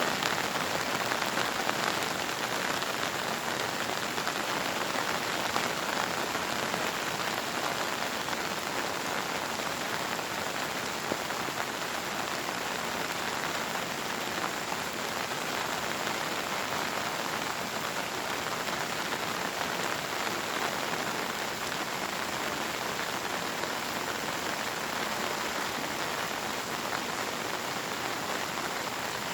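Steady, heavy monsoon rain pouring and pattering on surfaces.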